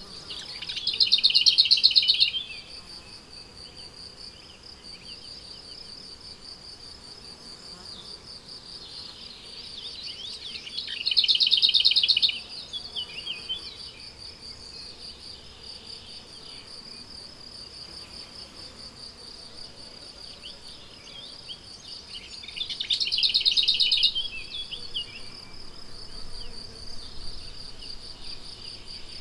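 Crickets chirping in a steady, fast pulsing trill, with a bird singing a short phrase of about two seconds three times, roughly every eleven seconds; the bird's phrases are the loudest sounds.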